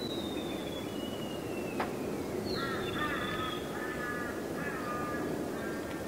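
Wild birds calling over a wetland: a long, slowly falling whistle, then a run of short, harsh, repeated calls in three or four groups. A single sharp click sounds just before two seconds in, over a steady low background rumble.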